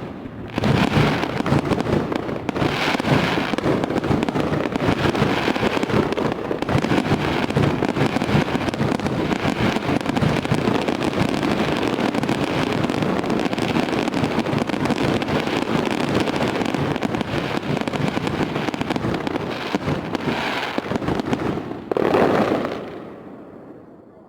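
Fireworks display: a dense, continuous barrage of bangs and crackling, with a louder burst near the end before it fades away.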